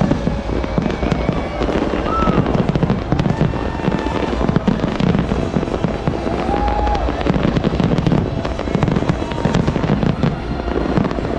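Fireworks going off in a dense, continuous barrage of bangs and crackles with a deep rumble underneath, and a couple of brief whistles.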